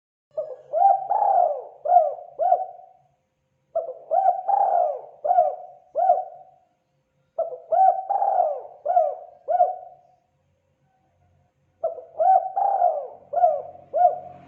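Spotted dove (terkukur) cooing: four phrases of several rolling coos each, repeated about every three and a half to four seconds.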